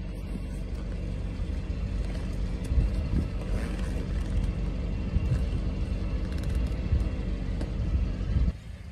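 Car engine idling, a steady low rumble that cuts off suddenly near the end.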